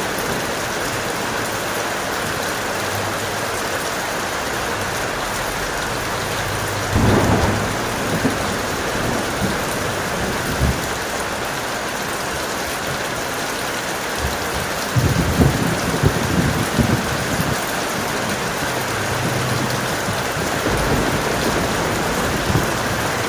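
Steady heavy rain with thunder. One rumble comes about seven seconds in, and a longer bout of several rumbles follows about halfway through.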